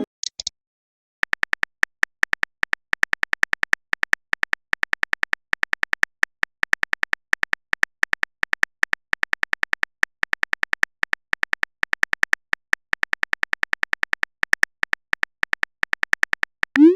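Rapid run of synthetic keyboard typing clicks from a texting-story app as a message is typed out, followed near the end by a short rising swoop.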